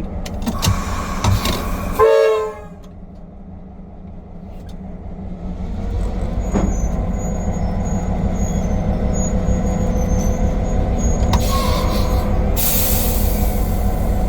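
Diesel shunting locomotive giving a short horn toot about two seconds in, then its diesel engine throttling up and running louder as the locomotive moves off. A loud burst of air hiss comes near the end.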